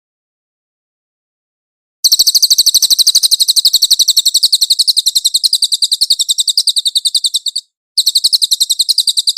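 Cililin songbird singing a fast, high-pitched trill of evenly repeated notes, starting about two seconds in, breaking off for a moment near the end and starting again.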